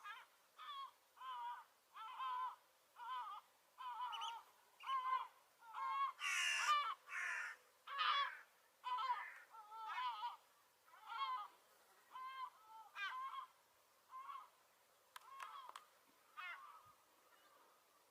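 Gull giving a long run of short repeated calls, about one and a half a second, loudest in the middle and thinning out near the end.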